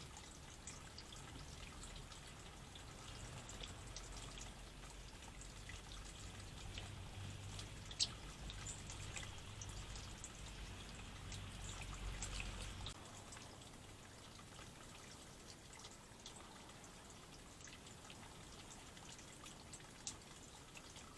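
Faint trickling and dripping water with scattered light ticks and one sharper click near the middle; a low rumble underneath stops about two-thirds of the way through.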